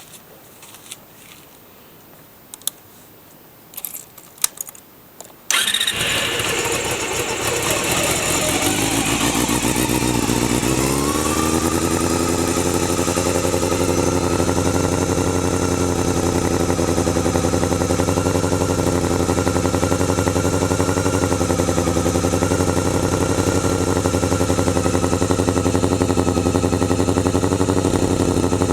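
A few faint clicks and knocks, then about five seconds in a Honda CBR250F (MC14) motorcycle engine starts and runs through a DIC aluminium aftermarket muffler. Its engine speed wavers for several seconds, then settles into a steady idle.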